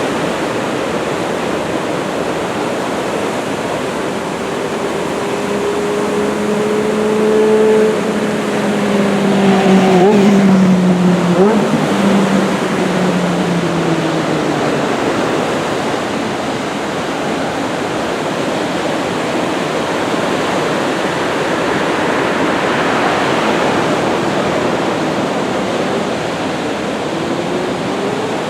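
Steady rush of breaking ocean surf. A motor vehicle passes through it in the first half, its pitched engine note gliding slowly downward and loudest about a third of the way in.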